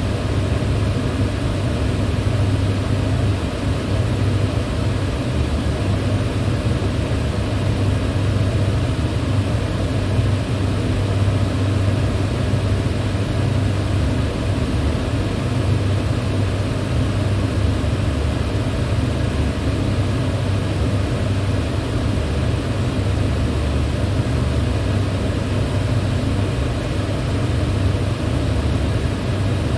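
Electric fan running steadily: an even rush of air over a low hum, unchanging throughout.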